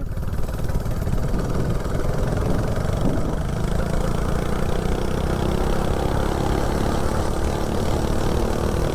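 Small 79cc LCT snowblower single-cylinder engine on a mini bike, with a JB-Weld head gasket, running under way while the bike is ridden. Its speed shifts at first, then holds steady from about three seconds in.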